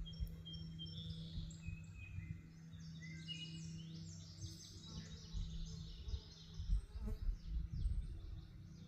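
Birds singing: a few clear whistled notes, then a long run of quick, high chirps, over a low rumble.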